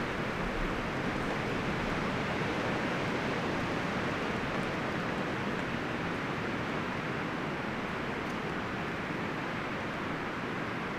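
Wind rustling through the leaves and branches of forest trees as a steady, even rush that swells slightly a few seconds in.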